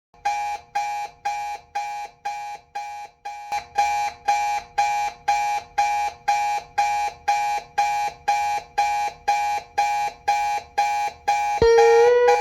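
Alarm clock beeping, a pitched ring repeating about twice a second. Near the end it gives way to a held note as slide-guitar music begins.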